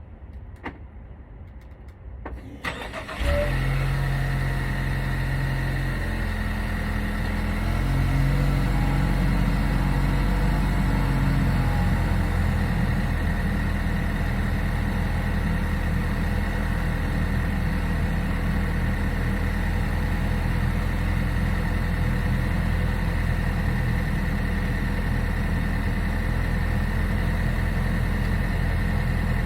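2015 Lincoln MKC's 2.0-litre EcoBoost turbocharged four-cylinder cold-starting: a few clicks, then a brief crank about three seconds in and the engine catches. It runs at a steady cold idle, its pitch shifting once around seven seconds in.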